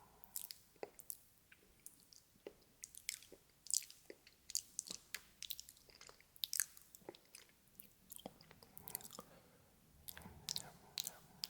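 ASMR mouth sounds: quick, irregular wet clicks and smacks of lips and tongue, several a second, in a nom-nom chewing pattern.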